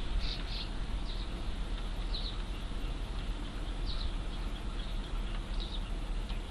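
Eurasian tree sparrow fledglings calling: about six short, high chirps at irregular intervals over a steady low rumble.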